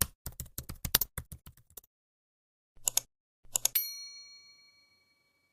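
Rapid typing clicks for about two seconds, then a couple of short clicky clusters, ending in a single bright bell ding that rings out and fades.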